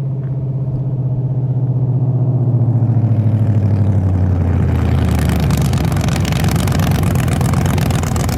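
Race truck's engine running loud, its note falling steadily in pitch over the first few seconds. A harsh rushing noise builds up over it from about five seconds in.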